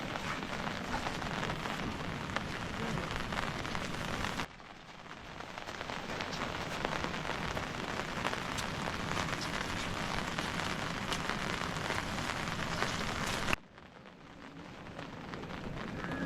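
Steady rain falling, an even hiss with scattered drop ticks. It cuts off abruptly twice, about four and a half seconds in and again near the end, and swells back each time.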